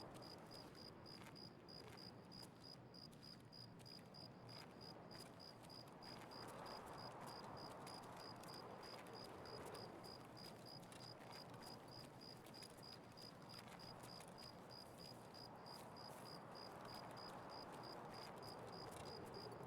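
Faint insect chirping, an evenly repeated high-pitched pulse at about two a second, over a soft background hiss.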